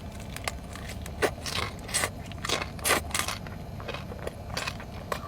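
Close-miked chewing of crispy fried pork chicharrón: irregular crackling crunches, two or three a second.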